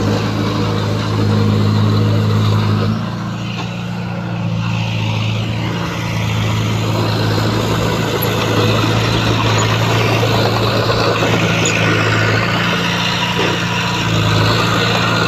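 Heavy earthmoving machinery's diesel engine running with a steady low drone. It eases off about three seconds in and comes back up a few seconds later, with a noisy clatter over it.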